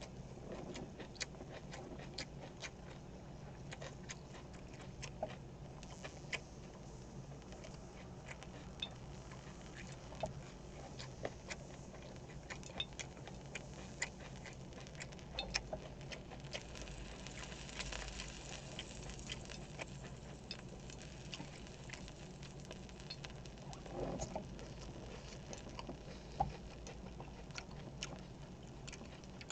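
Close-miked eating sounds: soft, irregular small clicks and smacks of chewing and mouth sounds as pork belly wrapped in kimchi is eaten.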